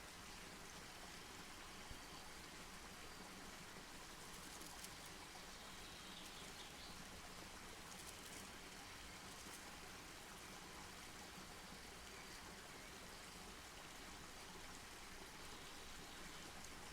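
Wood campfire burning faintly, a steady soft hiss with a few small crackles and pops.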